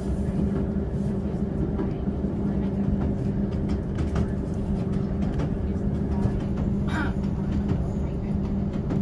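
Inside a diesel passenger train carriage: a steady engine hum over a low rumble, with faint clicks and a brief higher-pitched sound about seven seconds in.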